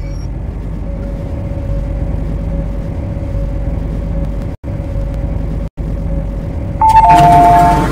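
MTR C-Train electric multiple unit with a steady low rumble, then near the end a loud two-tone door chime over the noise of the doors.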